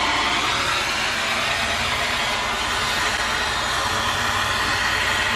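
Steady rushing hiss of a heating tool playing on an aluminium 2x72 grinder drive wheel, heating it so it expands enough to push onto the motor shaft.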